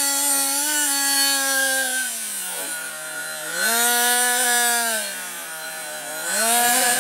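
Small two-stroke nitro engine of an RC monster truck running at high revs with a buzzing, high-pitched note. The revs drop about two seconds in, climb back about a second and a half later, then drop and rise again near the end.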